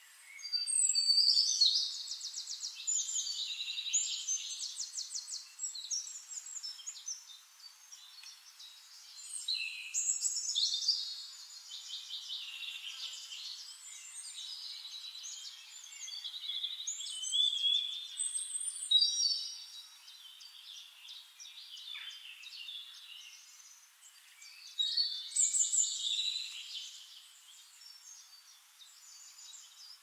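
Songbirds singing in high-pitched bursts of rapid trills and chirps. There are about four louder phrases a few seconds long, with softer chirping between them.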